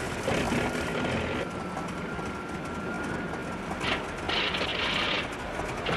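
Small biplane engine droning steadily, with a thin steady whine over the first few seconds and two bursts of hiss a little over halfway through.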